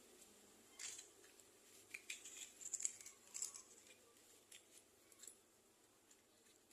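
Faint, scattered clicks and small metallic taps from a Petromax pressure lantern being handled while it is readied for alcohol preheating. The clicks are most frequent in the first half, with near silence between them.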